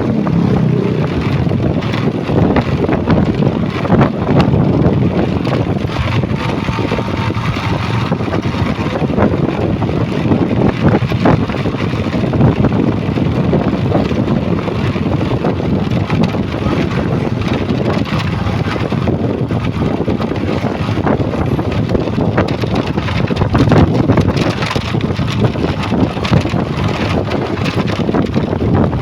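Steady rumble of heavy truck engines running, with wind buffeting the microphone.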